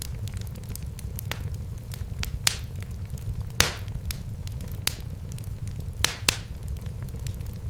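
Wood fire in a fireplace crackling, with irregular sharp pops, a few louder ones about three and a half seconds in and twice near six seconds, over a steady low rumble.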